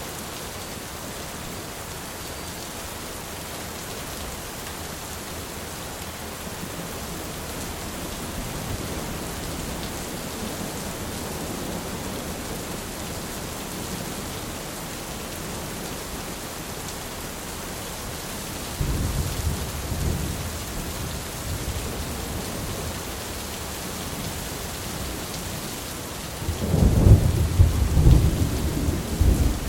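Thunderstorm: steady heavy rain with rolling thunder, a soft rumble about a third of the way in, a sudden loud clap of thunder about two-thirds in, and a louder crash of thunder near the end.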